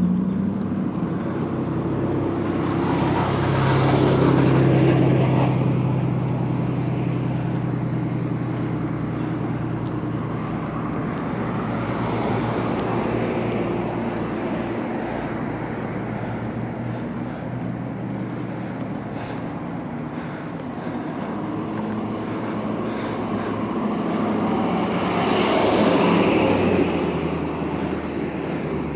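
Road traffic: motor vehicles passing close by, one swelling up and fading about four seconds in and another near the end, over a steady low engine hum.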